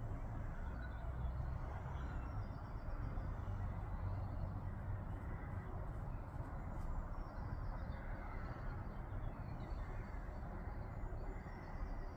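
Steady outdoor background noise with a low rumble, and faint bird calls now and then.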